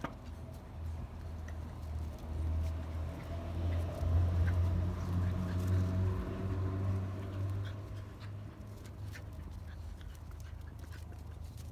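Andalusian bodeguero puppies play-fighting, with low growling that swells and fades over several seconds and small clicks from scuffling.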